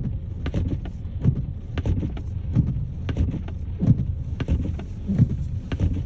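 Car cabin noise while driving slowly through snow: a steady low rumble with regular soft thumps about one and a half times a second.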